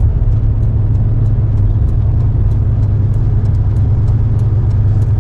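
A car's engine and tyres run with a steady low rumble, heard from inside the cabin while driving, with faint light ticks throughout.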